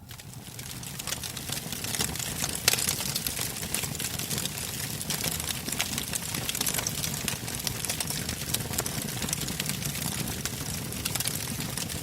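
Wood campfire burning, logs crackling and snapping irregularly over a steady low rush of flame. The sound swells up over the first two seconds, and the sharpest snap comes about two and a half seconds in.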